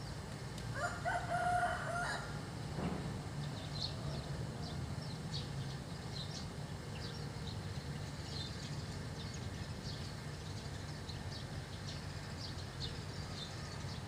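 One loud, pitched bird call about a second long near the start, then small birds chirping now and then over a steady low background hum.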